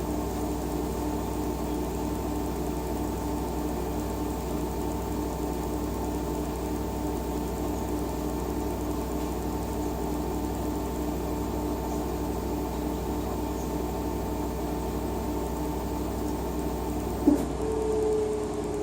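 LG WT-R852 direct-drive washing machine running with a steady motor hum and a faint regular pulse. Near the end a sharp click is followed by a new tone that slowly falls in pitch, as the motor changes speed.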